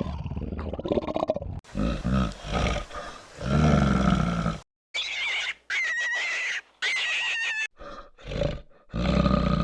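A series of animal calls cut together with abrupt breaks between them: low, rough calls first, then higher, held calls in the middle.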